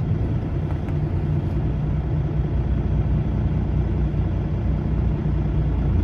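Peterbilt semi truck's diesel engine running steadily at a low, even rumble.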